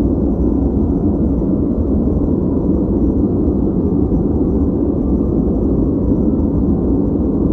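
Steady generated noise for focus, deep and rumbling, with nearly all of its energy in the low end and little hiss on top, like brown noise.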